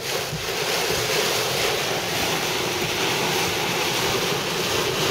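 Heavy rain and strong wind on a car, heard from inside the cabin as a steady rushing noise.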